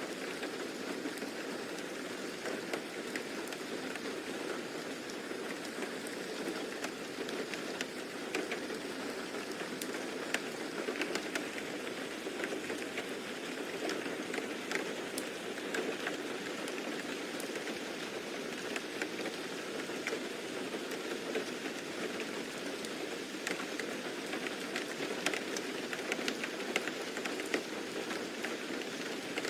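Steady rain: an even hiss of falling rain with many small, scattered drop ticks.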